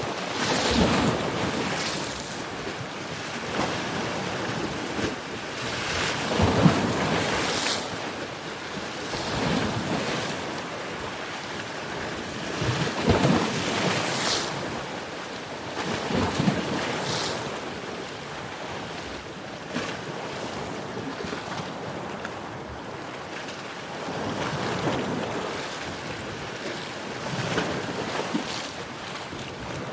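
Ocean waves breaking and washing ashore: a steady rushing surf that swells into a louder surge every few seconds.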